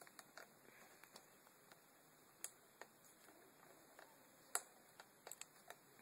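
Faint, irregular small clicks and taps of hand tools working on a motherboard while a capacitor is being desoldered. The two loudest clicks come about two and a half seconds in and a little past halfway, with a quick run of ticks near the end.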